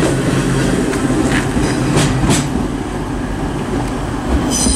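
Class 185 diesel multiple unit pulling into the platform, a steady rumble with wheels clicking over rail joints and points. A high metallic squeal sets in just before the end.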